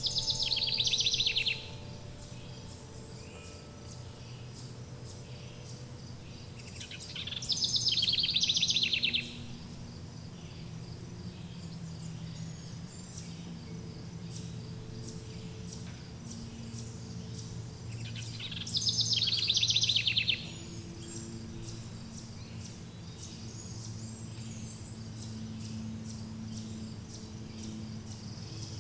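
A songbird's rapid trilled song, three loud phrases of under two seconds each, roughly seven and eleven seconds apart. Under it, insects chirp in a steady fast ticking and faint low tones are held throughout.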